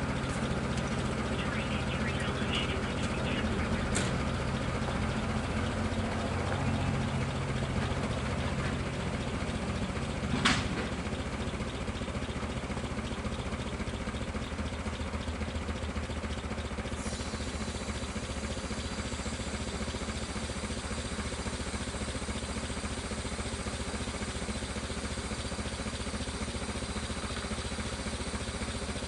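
Vehicle engine idling steadily, with a sharp click about four seconds in and a single knock about ten seconds in.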